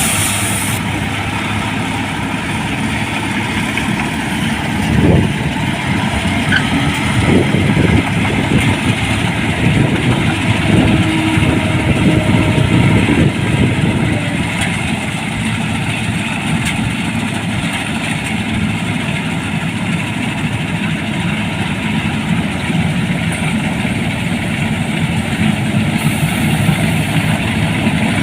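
Rice combine harvester running steadily, with a few louder swells in the middle.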